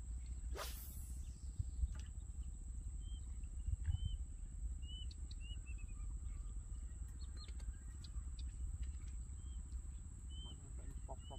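Small birds chirping, short arched calls repeated every second or so, over a steady low rumble and a thin steady high whine. A single falling swish comes about half a second in.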